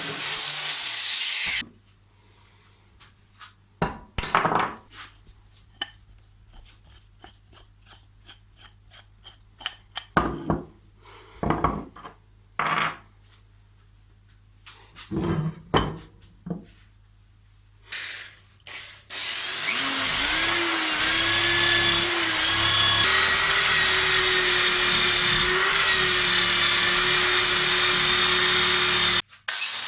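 Hand tool work on an old clamp: scattered taps and short scraping strokes with pauses between them. About two-thirds of the way in, a power tool starts and runs steadily with a held whine for about ten seconds, then cuts off suddenly.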